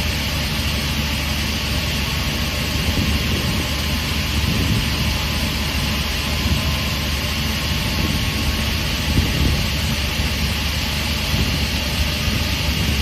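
SCM M3 crawler-feed multi-rip saw running, its 37 kW main motor and saw arbor giving a steady low hum under an even hiss.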